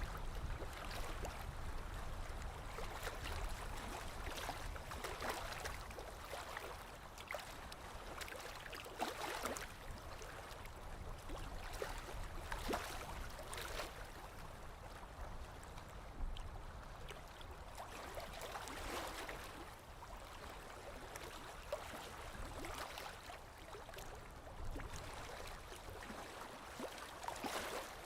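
Small lake waves lapping on the shore, with soft irregular splashes every second or two.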